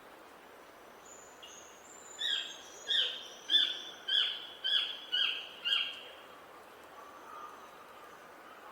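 A songbird singing a phrase of seven loud, repeated notes, each sliding downward, about two a second, starting about two seconds in and ending about four seconds later, over a faint outdoor hiss.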